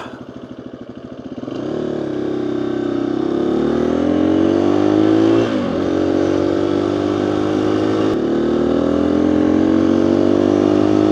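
Motorcycle engine pulling up through the revs, with a short drop in pitch about five and a half seconds in as it shifts up a gear, then climbing again. It is heard from a mic inside the rider's helmet.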